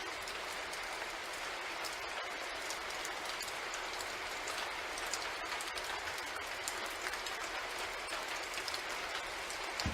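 Sound-effect ambience of a train running at night: a steady hiss of rain with many small drop ticks over the even running noise of the train.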